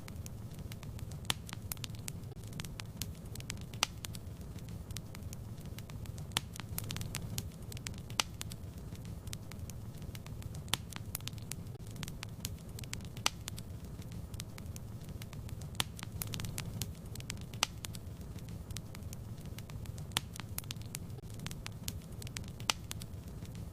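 Wood fire in a fireplace crackling: sharp irregular pops and snaps over a steady low rumble of the flames.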